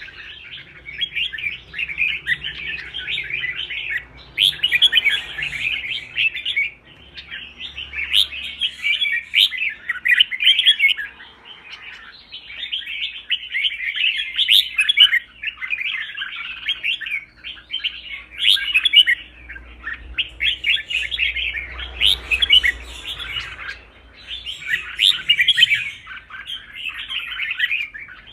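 Red-whiskered bulbuls singing: quick, chattering, warbled song phrases in repeated bursts of a second or two with short pauses between them. This is the excited competition-style song that is played to train caged bulbuls.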